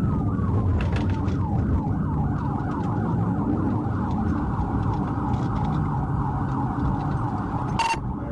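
Police car siren in a pursuit, going from a slow wail into a fast repeating yelp that quickens about four seconds in, over the patrol car's engine and road noise. A short sharp click near the end.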